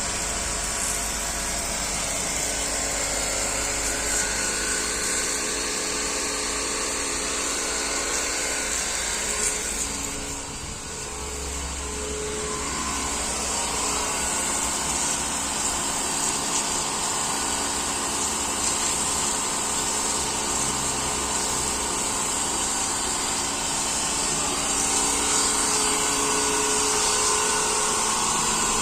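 Daihatsu three-cylinder lifeboat diesel engine running steadily, briefly quieter about ten seconds in.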